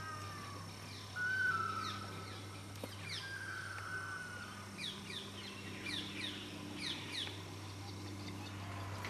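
Wild birds calling: a drawn-out whistle repeated three times in the first few seconds, then a quick run of short, high, falling chirps, over a steady low hum.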